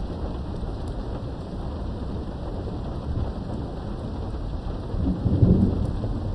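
Steady rain falling, heard from indoors behind a window, with a low roll of thunder that swells about five seconds in and fades over a second or so.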